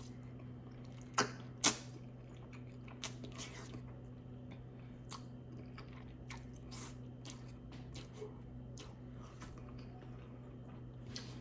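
A person chewing food close to the microphone: soft wet mouth clicks and smacks scattered through, with two sharper smacks about a second and a half in. A faint steady low hum runs underneath.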